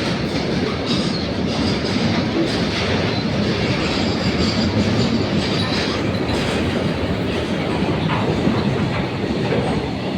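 Fast Indian Railways train running through a station at speed without stopping, its wheels clattering steadily over the rails.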